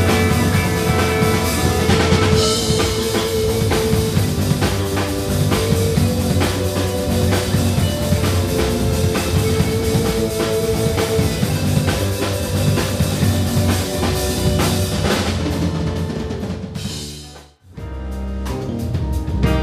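Live band playing, a full drum kit with bass drum, snare and rimshots over steady bass and guitar lines. About three-quarters of the way through the music fades out sharply to near silence for a moment, then comes back in with a different sound.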